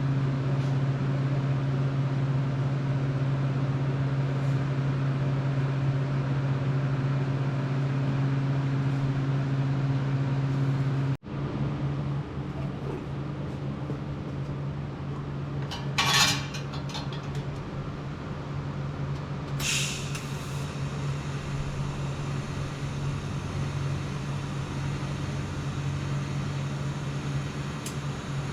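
A steady machine hum with a low buzzing pitch cuts off abruptly about eleven seconds in. A quieter hum follows, and two brief metallic clinks come around sixteen and twenty seconds in.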